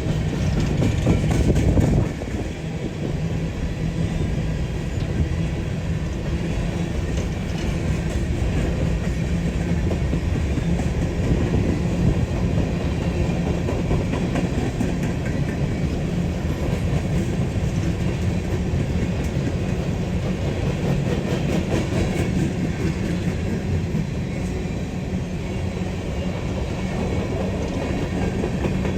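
Freight train moving slowly on the rails: the steady low drone of a diesel locomotive with the rumble and clicking of wheels over the track. It is loudest in the first two seconds, then drops a little and holds steady.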